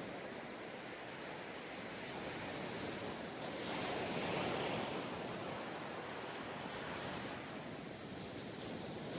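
Ocean waves breaking and washing on a sandy beach, a steady surf hiss that swells as a wave breaks a few seconds in and again near the end.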